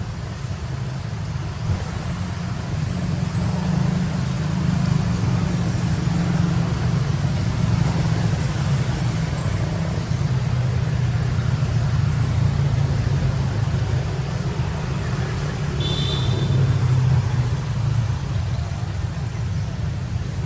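Steady low rumble, with one brief high-pitched chirp about sixteen seconds in.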